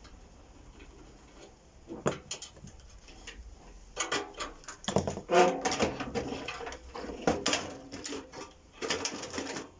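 Clicks, knocks and scraping of plastic and sheet-metal microwave parts being pried apart and handled with hand tools: a few clicks about two seconds in, then a busy stretch of clattering from about four seconds until near the end.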